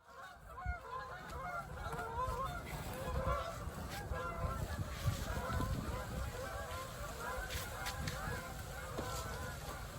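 A flock of geese honking, many calls overlapping continuously, with low wind rumble underneath.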